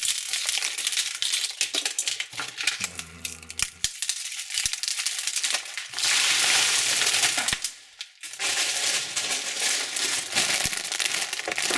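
Candy and surprise-egg wrappers of foil and plastic crinkling and crackling as they are handled and unwrapped. There is a louder, steadier rustle for about a second and a half around six seconds in.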